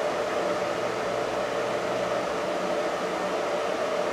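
Fanuc Red Top DC servo motors running steadily on the bench under their drives: a constant whine and hum over a fan-like hiss. A lower hum drops out about halfway through.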